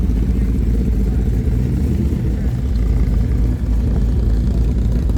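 Vehicle engine and road noise: a steady low rumble.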